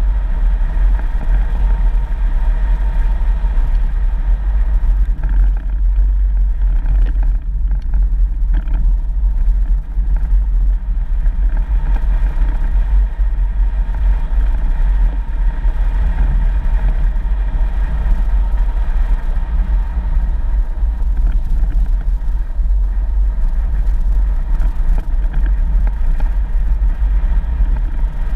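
A 4x4 vehicle driving along a dirt road: steady engine and road rumble with a strong deep drone and no break.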